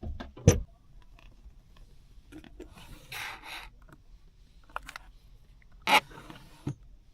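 Things being handled at close range: a sharp knock, a short rubbing scrape, then another loud knock and a softer thump.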